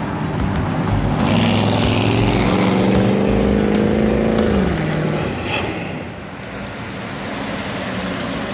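A car engine running under throttle, its pitch climbing slowly and then dropping sharply about four and a half seconds in.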